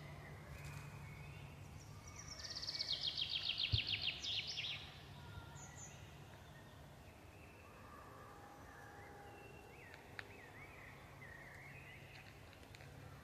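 A songbird sings a loud, rapid trill of repeated notes that falls in pitch, lasting about two and a half seconds. Fainter bird calls follow later, over a low steady background hum.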